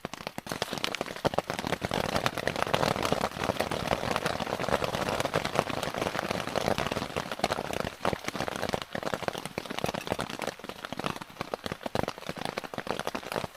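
Heavy rain falling on a tent's fabric: a dense, steady patter of many drop hits.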